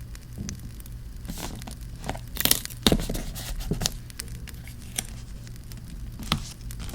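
Paper being handled close up, crinkling and tearing, with a louder rustle and tear and a light tap about two and a half to three seconds in. Small scattered crackles and a low steady rumble run underneath, like a campfire sound bed.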